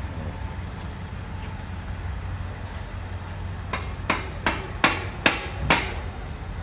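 Six quick hammer blows, a little under half a second apart, over a steady low rumble.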